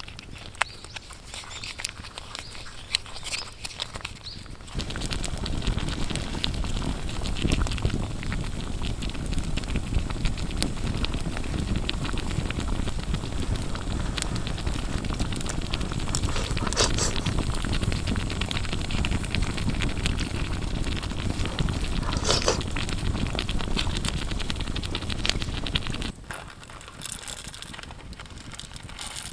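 Wood fire crackling with scattered sharp pops. From about five seconds in until a few seconds before the end, a louder, steady low rumble joins the crackle.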